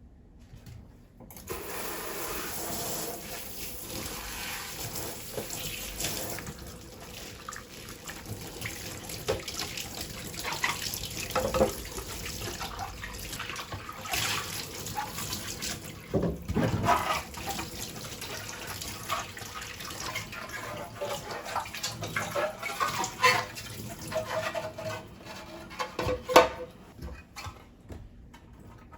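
Tap water running into a sink while things are washed under it, with occasional knocks and clatters against the sink; the tap starts about a second in.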